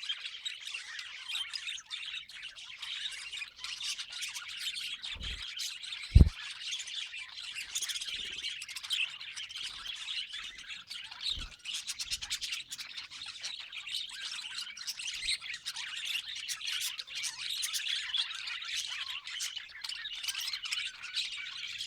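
A flock of budgerigars chattering, a dense, unbroken twittering of many chirps at once. A single low thump stands out about six seconds in, with fainter ones around five and eleven seconds.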